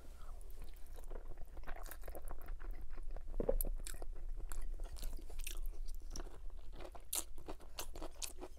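Close-miked chewing of a mouthful of spaghetti bolognese: a continuous run of small wet mouth clicks and smacks.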